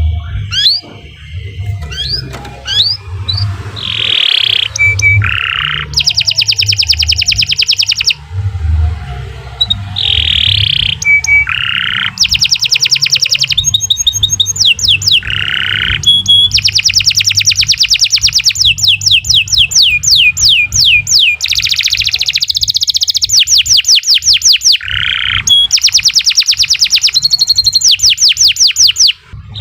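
Domestic canary singing a long, continuous song of rapid trills and runs of repeated high notes.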